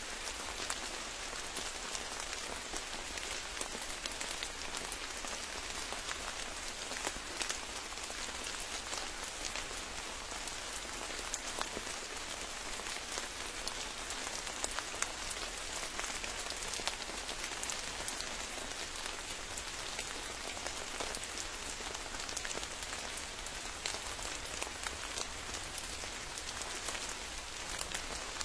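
Steady rain falling, with many separate drop ticks scattered through an even hiss.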